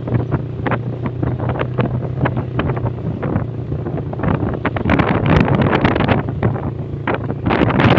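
Motorcycle riding at speed: wind buffeting the rider's microphone in gusts over a steady, low engine hum.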